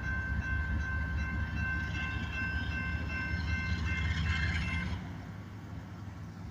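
Single diesel locomotive running out of the yard: a low engine rumble with a steady, high ringing tone over it, both dropping away about five seconds in.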